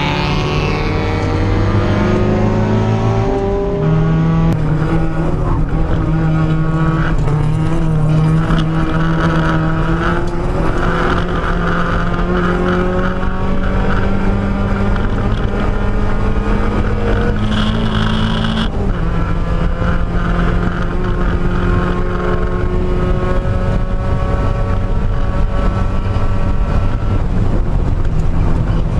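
Mazda Miata race car's engine at full throttle, heard from inside the cabin on track. The revs climb slowly, and the pitch drops sharply at a gear change about 19 seconds in.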